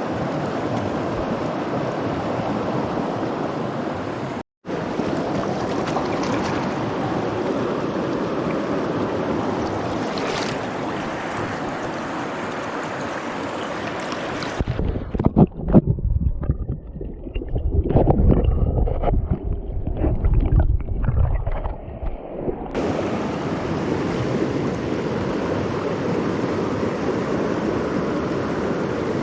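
Steady rush of a flowing trout stream. It drops out briefly about four seconds in. For about eight seconds past the middle it gives way to loud, irregular low rumbling and knocks on the microphone.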